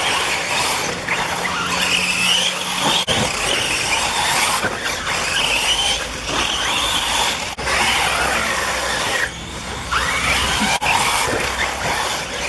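Electric off-road RC buggies racing: the high-pitched whine of their motors and drivetrains rising and falling again and again as they speed up and slow down, over the noise of tyres on the track.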